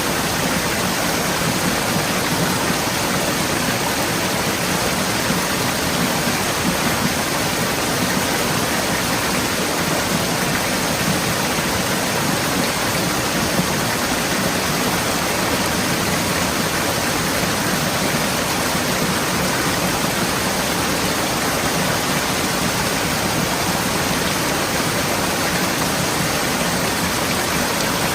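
Forest stream flowing, a steady loud rush of water over rocks with no breaks.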